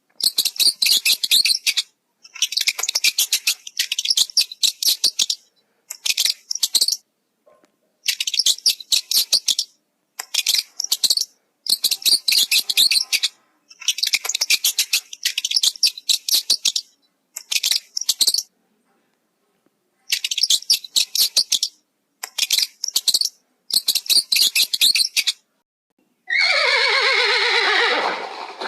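A bird's rapid, high-pitched chattering calls, in bursts of one to two seconds with short gaps. Near the end a horse whinnies with a wavering pitch.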